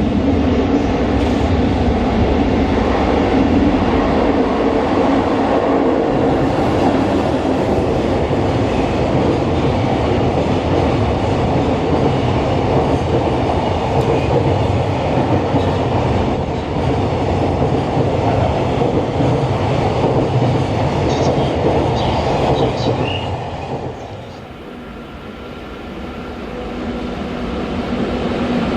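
Freight train passing close by, the steady noise of its wagons' wheels on the rails. The noise drops away about 24 seconds in, then builds again near the end.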